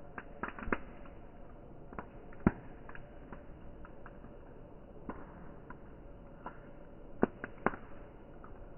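Firewood burning and crackling: irregular sharp pops and snaps over a soft steady hiss, with a few louder snaps about two and a half seconds in and twice near the end.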